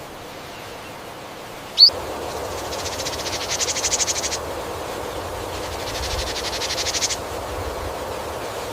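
Rainforest wildlife ambience: a sharp rising chirp about two seconds in, then two rapid high trills of a few seconds each, both growing louder toward their end, over a steady hiss of background noise.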